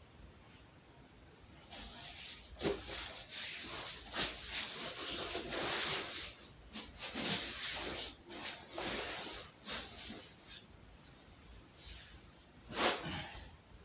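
Wood fire in a fireplace crackling and hissing, with irregular small pops and a few louder snaps.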